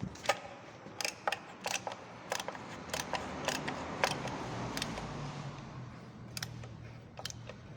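Irregular sharp metal clicks and taps from hand tools working a helicoil insert into a threaded hole, over a faint steady hum.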